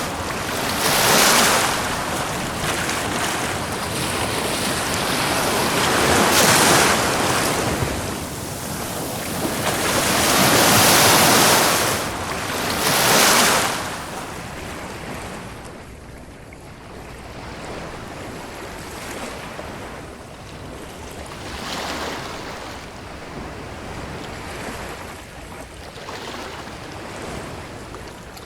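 Ocean waves breaking and washing over a beach, in rhythmic surges. Four loud surges in the first half give way to gentler, quieter wash about halfway through.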